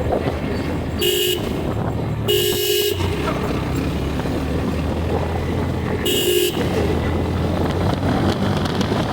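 A vehicle horn honks three times, a short beep about a second in, a longer one about two seconds in and another short one about six seconds in, over steady low road noise.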